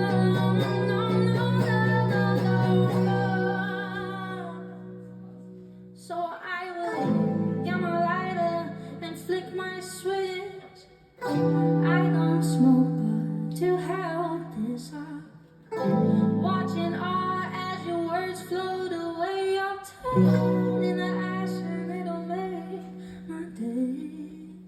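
Closing bars of an acoustic song: guitar chords ringing under a melody line, in four phrases that each start strong and fade away, the last one dying down near the end.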